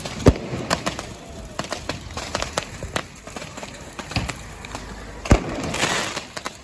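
Fireworks going off: scattered sharp bangs and pops, with a loud bang just after the start and another about five seconds in, the second followed by about a second of crackling.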